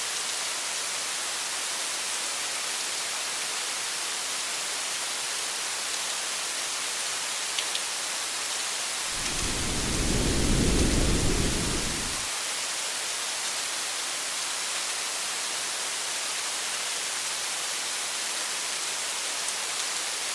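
Steady rain falling on a parked car, an even hiss throughout. About nine seconds in, a low rumble of thunder swells and fades over about three seconds.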